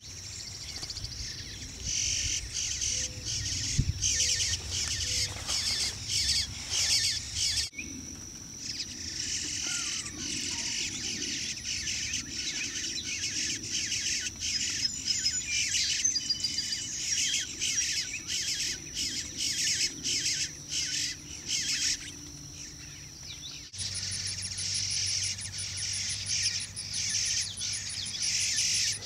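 Small birds chirping in quick, high, repeated notes. The sound cuts abruptly twice, and from the second cut, about three-quarters of the way in, a steady high insect trill runs under the chirps.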